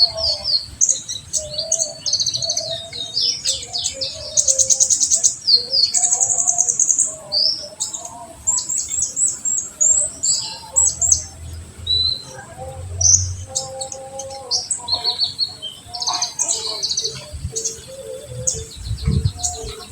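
Konin singing a dense run of rapid, high chirps and fast trills, the repeated notes crowding one after another. A softer, lower warbling runs beneath, and there are a couple of low thumps near the end.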